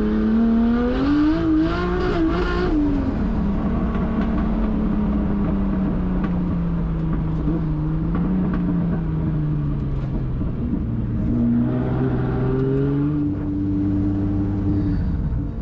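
1.5JZ straight-six engine of a drift car under hard driving. It revs up about a second in and eases off, holds a steady note, then revs up again about twelve seconds in, with a brief lift near the end.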